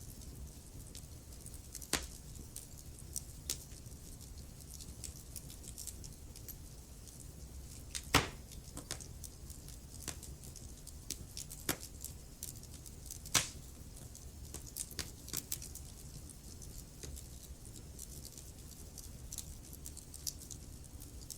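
Wood fire crackling in a fireplace: a low, steady rumble of the flames with scattered sharp pops and snaps, the loudest about eight and thirteen seconds in.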